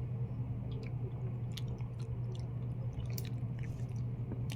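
Someone chewing balut (boiled fertilized duck egg) close to the microphone, with a scattering of short wet clicks and smacks over a steady low hum.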